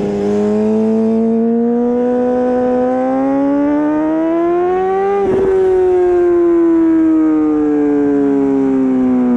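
Honda CBR600RR inline-four with an Akrapovic exhaust accelerating, revs climbing steadily for about five seconds. Then the throttle closes with a short blip, and the revs fall slowly as the bike slows on the engine.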